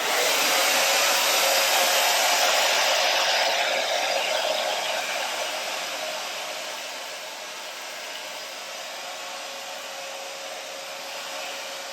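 Small hair dryer switched on and running with a steady airy noise and a steady hum, blowing wet acrylic paint across a canvas. It is loudest for the first few seconds, then grows quieter from about four seconds in and holds steady.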